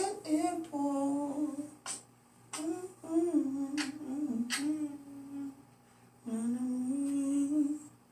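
A person humming a slow melody without words, in phrases of held notes with short pauses between them. A few faint clicks are heard near the middle.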